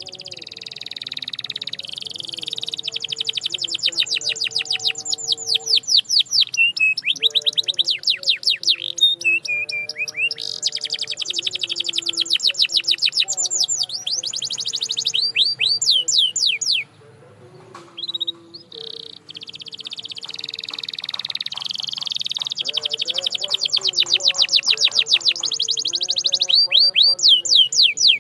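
Canary singing: long rolling trills of rapid, evenly repeated high notes, changing from phrase to phrase, with a break of about two seconds past the middle before the song starts again.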